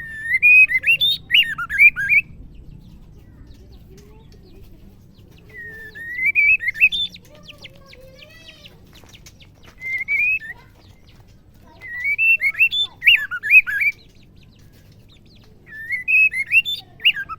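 Female white-rumped shama singing: five short phrases of quick whistled notes that swoop up and down in pitch, a few seconds apart.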